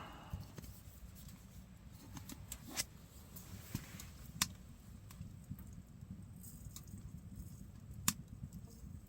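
Firewood burning in a wood stove: scattered sharp pops and crackles over a low steady rumble, the loudest pops about three, four and a half and eight seconds in.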